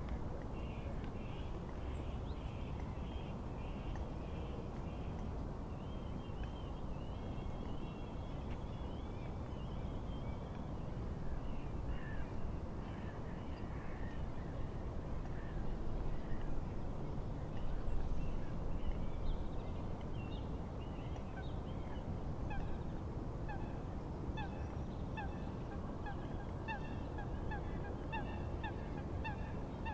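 Steady wind and lapping-water noise. Small birds call in quick high notes through the first third, and from about two-thirds of the way in a run of repeated honking calls comes about twice a second, typical of geese.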